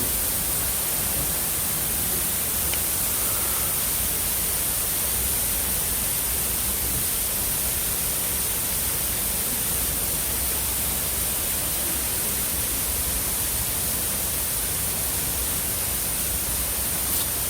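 Steady rushing noise of a waterfall, even throughout, with a constant high hiss.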